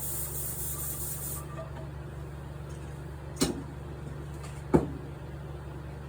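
A small spray gun sprays contact adhesive with a hiss that stops about a second and a half in. Two sharp knocks follow, over a steady low hum.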